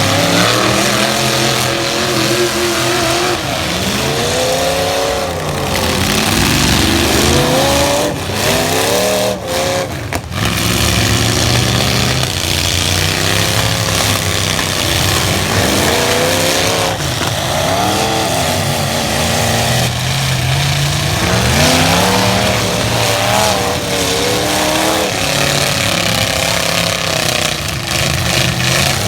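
Light trucks' engines revving hard in a derby, their pitch sweeping up and dropping back again and again over a constant noisy din.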